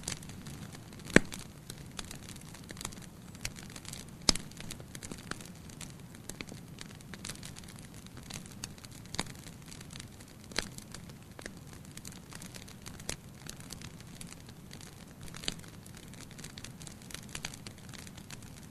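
Wood fire burning in a fireplace: a steady low hiss with irregular sharp crackles and pops, two louder pops about one and four seconds in.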